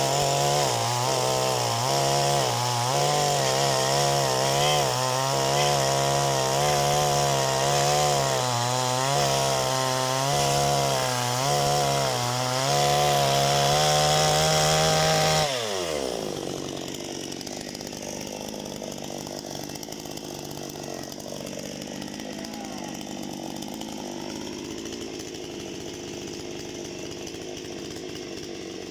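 Parma BP-058 chainsaw running at high revs while cutting firewood, its pitch dipping and recovering over and over as the chain bites into the wood. About halfway through the pitch falls away quickly and the sound drops to a much quieter level.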